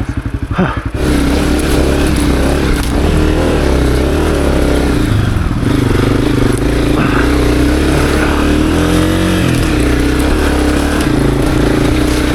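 Honda CRF250F dirt bike's single-cylinder four-stroke engine chugging at low revs for about a second. It then runs under load on a rocky trail, its revs rising and falling as the rider works the throttle.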